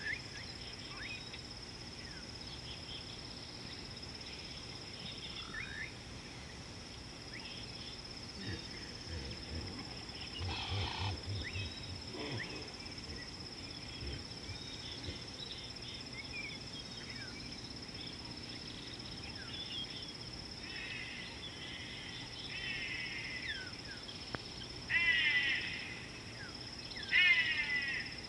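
Wild birds calling: scattered short chirps and whistles, then two loud harsh calls near the end. Underneath is a steady high-pitched drone, and a short rattling sound comes about ten seconds in.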